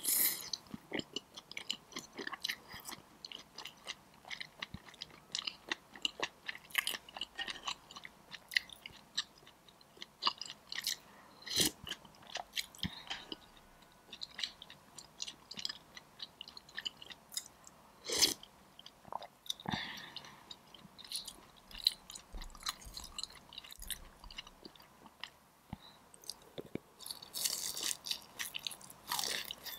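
Close-miked mouth sounds of eating: soft chewing with many small wet clicks and smacks. Near the end comes a louder, crunchy bite into a sauced fried chicken wing, followed by crunchy chewing.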